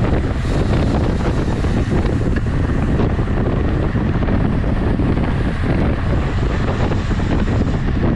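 Wind buffeting the microphone of a camera carried on a road bike ride: a loud, steady rushing noise heaviest in the low end.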